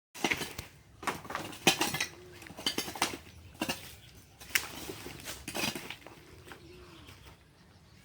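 A run of irregular sharp clicks and clinks, about a dozen of them, bunched in the first six seconds and then dying away.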